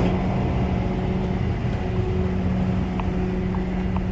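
Idling truck engine running steadily, a constant low rumble with a steady hum, with a few faint ticks in the second half.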